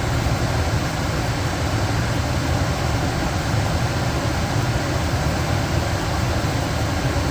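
Carrier gas furnace blower fan running smoothly, a steady low hum and rush of moving air. The blower motor is now spinning and circulating air, where before it would not turn.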